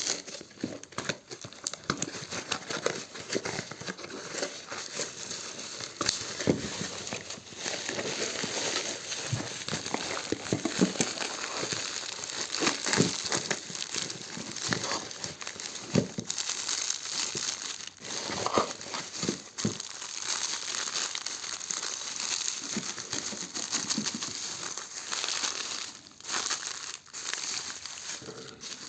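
Packaging being unwrapped by hand: irregular crinkling and rustling with short crackles and handling knocks.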